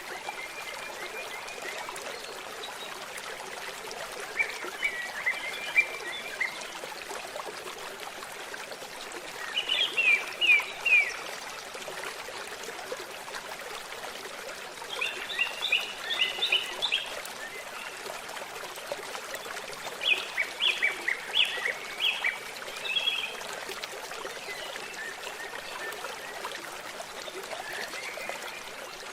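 A brook trickling and burbling steadily, with songbirds singing short bursts of quick, high chirps every few seconds.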